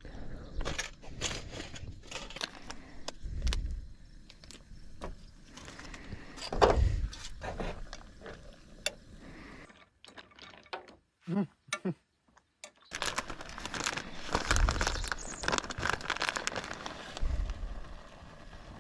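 Clatter and rustle of hands-on cooking prep: irregular knocks and clicks of utensils and cookware, with handling noise. A near-silent gap of a few seconds breaks it in the middle.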